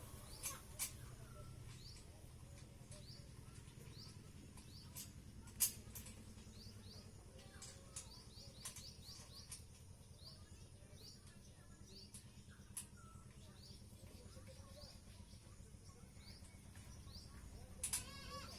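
A small bird chirping, short high chirps repeated about once a second over a low steady background hum, with a few sharp clicks.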